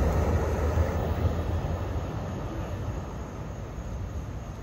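NJ Transit commuter train moving away, a low rumble that fades steadily.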